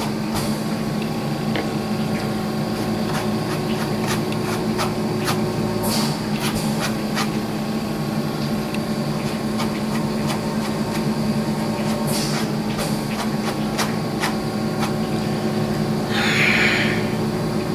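Steady mechanical hum from a motor or fan in the room, with light taps and brief scratchy strokes of a paintbrush working on a canvas scattered through it.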